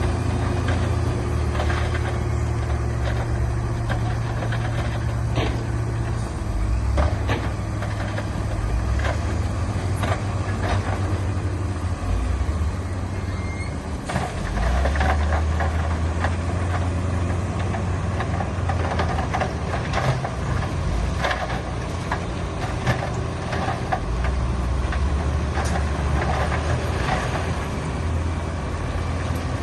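Heavy diesel earthmoving machinery running, its low engine note stepping up and down several times as the load changes, with scattered knocks and clanks.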